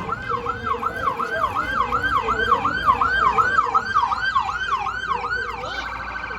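Emergency-vehicle siren, probably on an escort vehicle, sounding in a fast yelp of about three sweeps a second. Near the end it switches to a rapid, even warble.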